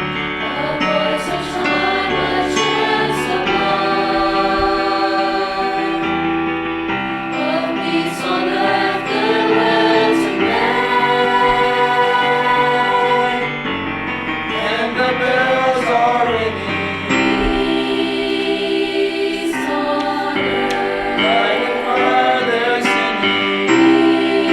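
A choir singing slow, held notes, some with a wavering vibrato.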